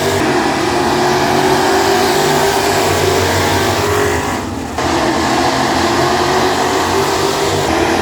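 A field of classic-class dirt track race cars running at speed, several engines layered together. The sound drops slightly about halfway through and comes back abruptly.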